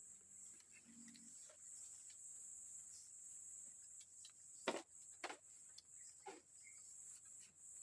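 Faint, steady high-pitched chirring of forest insects, with three sharp knocks a little past the middle.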